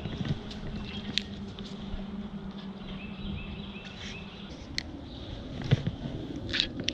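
Wind rumbling on the microphone, with a steady low hum that stops about four and a half seconds in and scattered sharp clicks and taps.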